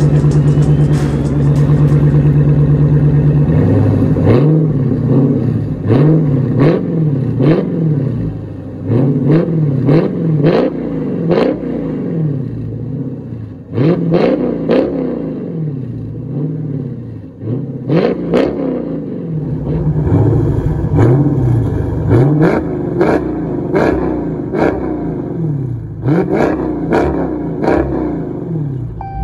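Dodge Challenger R/T Scat Pack's 392 HEMI V8 through a Kinney's Tunnel Ram custom exhaust. It runs at a steady note for the first few seconds, then is revved in repeated blips, roughly one a second, each rising and falling in pitch.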